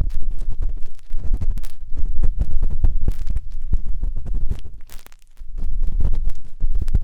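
Matchstick rubbing and scratching inside the silicone ear of a 3Dio binaural microphone: dense, close, rumbling scrapes made of many short strokes, with a brief pause about five seconds in.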